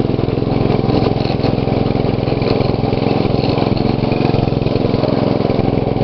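2012 MTD lawn tractor engine running steadily as the tractor is driven in its selected speed, with the mower blades disengaged.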